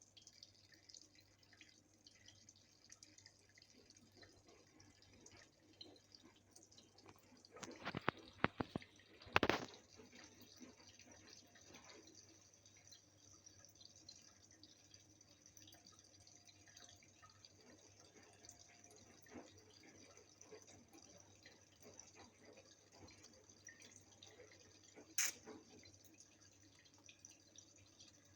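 Faint trickle and drip of a faucet left running in a thin stream for cats to drink from. A quick cluster of sharp knocks comes about eight to nine seconds in, and one more near the end.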